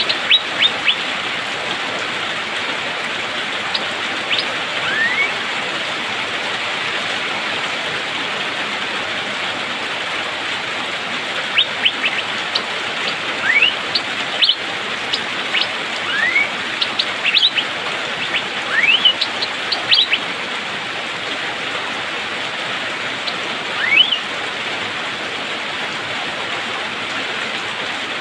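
Asian fairy-bluebird (cucak biru) giving short rising whistled notes and sharp high 'pik' calls in scattered clusters, over steady rain.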